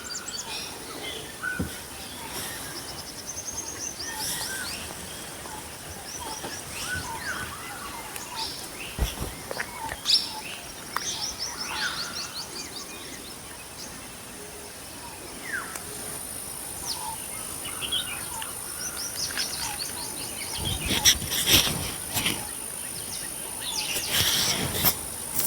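Many forest birds chirping and calling in an evening chorus, short twitters and sweeping whistles overlapping, over a thin steady high-pitched tone. A few brief louder noises break in near the end.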